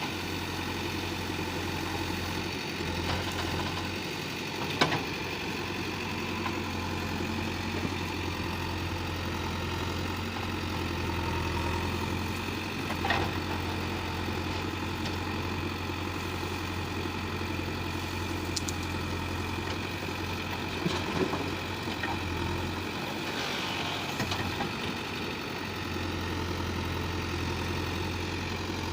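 Heavy diesel machinery engine running steadily at low revs, broken by a few sharp metallic clanks.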